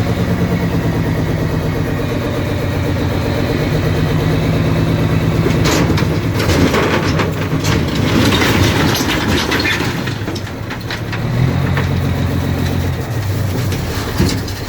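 Rock dump truck's diesel engine running under load while the truck dumps its load of rock, its pitch stepping up about four seconds in and again near eleven seconds. A rattling, clattering stretch comes between about six and ten seconds.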